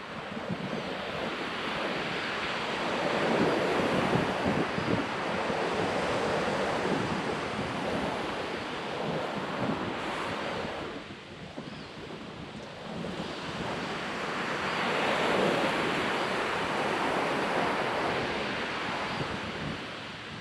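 Ocean surf breaking and washing up a beach: two long swells of rushing water with a lull about halfway, and some wind on the microphone.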